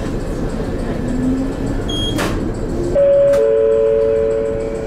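Ohmi Railway 800 series electric train pulling away from a station: steady running and rail noise with a faint whine rising in pitch as it gathers speed, a sharp click a little over two seconds in. About three seconds in a steady two-note tone starts, the second note joining a moment later, both held for about two seconds.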